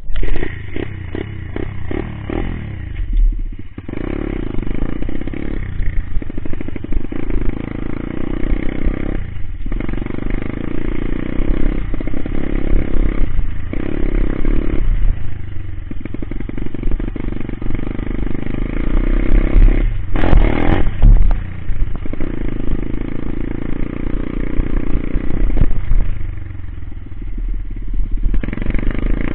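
Coolster Speedmax 125 pit bike's single-cylinder engine under way while riding, the throttle repeatedly backing off and opening up again. There is a short, loud noise about two-thirds of the way through.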